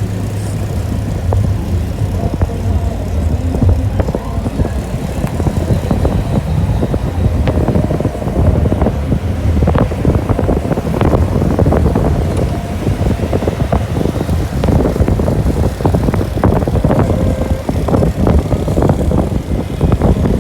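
Wind buffeting the microphone: a loud, uneven low rumble with many irregular knocks, over road traffic.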